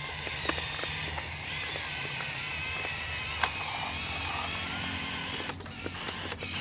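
Huina 1573 RC dump truck's small electric motor and plastic gearbox whining steadily as it drives, the pitch wavering a little with speed, with one sharp click about halfway through.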